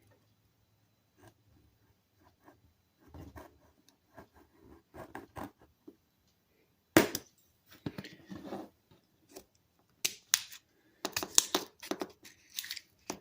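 Old plastisol coating being cut and peeled off a steel toolbox handle: scattered snips, tearing and scraping, with a sharp crack about seven seconds in and a quick run of crisp clicks and snaps near the end.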